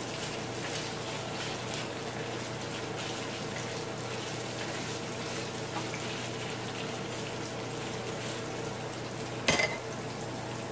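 Saltfish, onion and green pepper sizzling steadily in oil in a non-stick frying pan, stirred and tossed with a plastic slotted spatula that scrapes lightly against the pan. One sharp clack about nine and a half seconds in.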